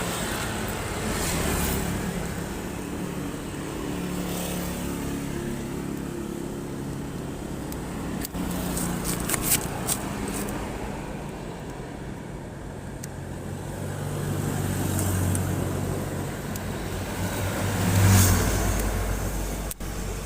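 Motor vehicle engines running on a road, their pitch rising and falling as they rev or pass, with a few sharp clicks about nine seconds in and a louder passing vehicle near the end.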